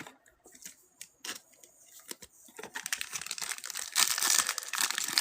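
Foil trading-card pack wrapper crinkling as it is torn open and handled. A few light clicks come first, then the crinkling starts about halfway through and gets louder near the end.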